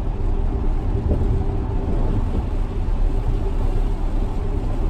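Steady low road and tyre noise inside the cabin of a Tesla Model X, an electric car with no engine note, driving on rain-wet freeway pavement.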